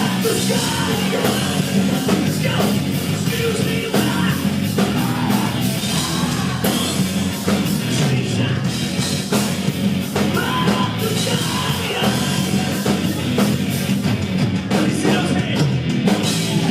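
Rock band playing live at full volume in a heavy, driving style, with shouted vocals over guitars and drums.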